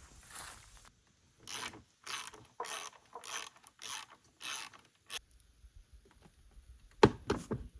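A hand-worked ratcheting mechanism, worked in about seven even strokes roughly half a second apart, then a few sharp metal clicks near the end.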